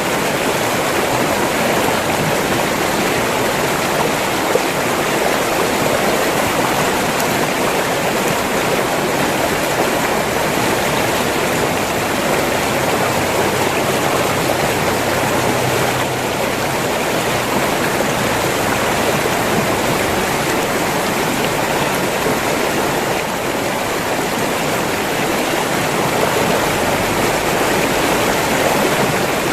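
River water flowing steadily, an even, continuous stream sound.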